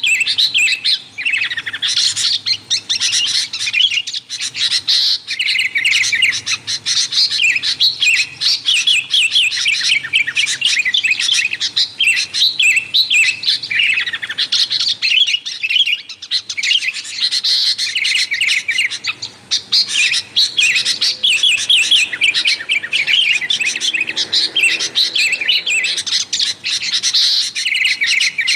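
Sooty-headed bulbuls (kutilang) chattering busily: a continuous, dense stream of quick, bright chirping notes with hardly a pause, the noisy call recording used to lure wild kutilang.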